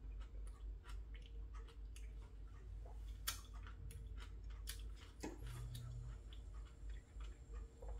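A man chewing a mouthful of food with his mouth closed: soft, irregular crunching and clicking from crisp green chili pepper and kimchi, over a faint steady room hum.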